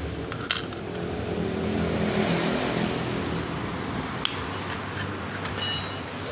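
Small metal motorcycle engine parts being handled and set down: a few sharp clicks, then a bright ringing clink near the end, over a steady low workshop hum.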